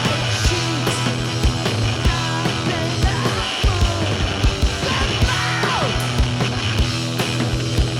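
Live punk rock band playing loudly, with a steady driving drum beat and held bass notes; sung vocals come in partway through.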